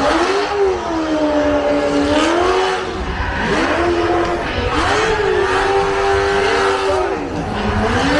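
Drift car engine at high revs, its pitch swinging up and down every second or two as the throttle is worked, over a steady hiss of tyre and track noise.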